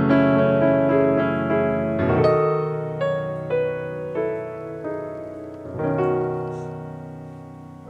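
Background piano music: slow, sustained notes struck one after another, the last chord dying away near the end.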